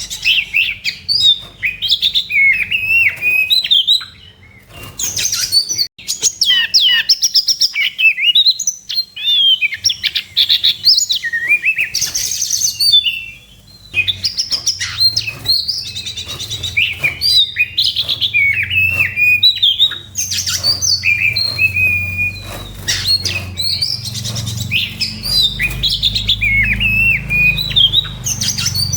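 Oriental magpie-robin (kacer) in its aggressive fighting song: a long, fast run of varied whistles, trills and chattering notes, with two brief breaks.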